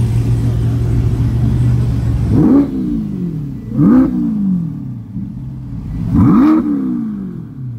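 C8 Corvette V8 running steadily, then revved three times from about two and a half seconds in, each blip rising quickly and falling back.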